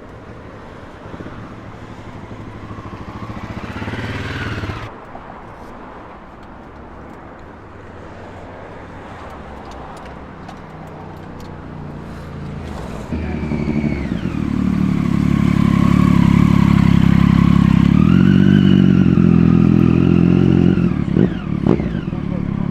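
Sports motorcycle engines revving on acceleration: first a fainter note rising in pitch that cuts off about five seconds in, then a much louder one from about thirteen seconds that climbs and falls in pitch and drops away quickly near the end.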